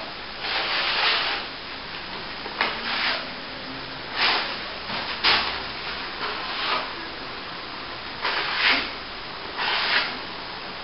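Steel plastering trowel scraping across wet top-coat plaster, about seven separate strokes at uneven intervals, each a short rasping swish.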